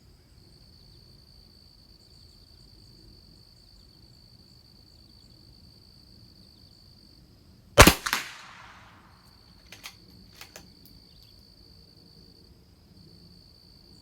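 A single .22 LR rifle shot from a Christensen Arms Ranger, sharp, with a short echoing tail, about eight seconds in, followed by a few small clicks about two and three seconds later. A steady high insect trill runs underneath throughout.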